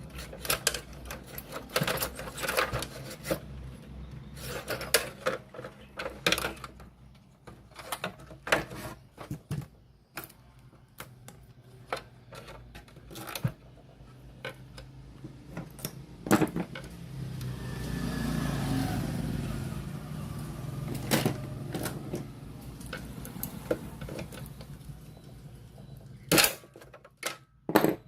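Irregular clicks, knocks and small clatters of handling and tool work on a portable radio cassette player, over a steady low electrical hum, with a longer swelling noisy passage about two-thirds of the way through.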